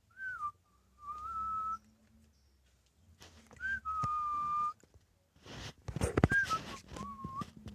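A person whistling three short phrases, each a quick upward slide into a held note. Near the end, a clatter of knocks and rustling comes in, loudest about six seconds in.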